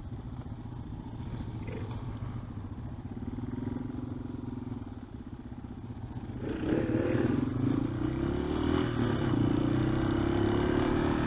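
Yamaha XT225 dual-sport motorcycle's single-cylinder engine running on the ride, steady at first, then louder about six and a half seconds in as it picks up speed.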